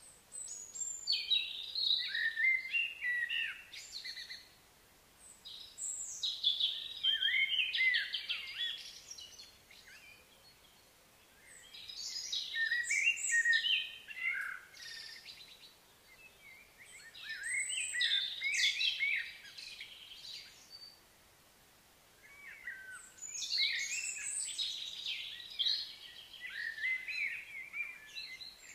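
A songbird singing in five bouts of quick, varied chirps and warbles, each a few seconds long with short pauses between.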